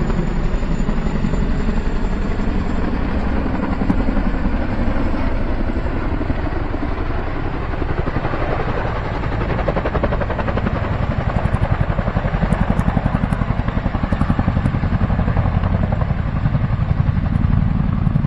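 A large firefighting helicopter's rotor beating in a fast, steady pulse, loud and close, with the whine of its turbines above.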